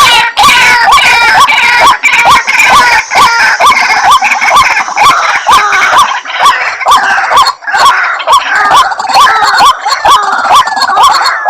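White-breasted waterhen calls, the playback used as a lure to call the birds in: a loud chorus of short croaking notes repeated two to three times a second, with overlapping voices. The calls grow denser and more jumbled about halfway through.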